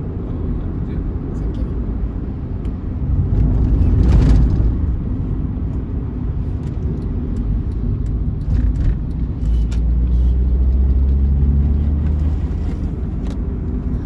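Intercity bus driving at speed, with steady engine and road rumble. A vehicle rushes past about four seconds in, and a deeper engine drone swells from about halfway through.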